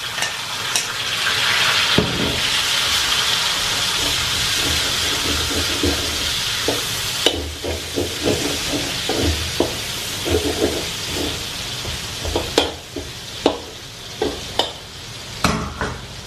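Ginger and chilli sizzling in hot oil in a metal wok, the sizzle strongest in the first half and easing later. From about halfway, a metal spatula scrapes and knocks repeatedly against the wok as the aromatics are stirred.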